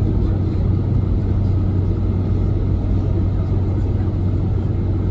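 Steady low rumble and hum inside the cabin of a Boeing 747-400: engine and airflow noise heard from a rear window seat, even in level with no changes.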